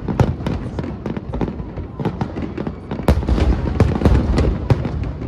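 Aerial fireworks going off in quick, irregular succession: sharp bangs and crackles several times a second over low rumbling booms, densest about three seconds in.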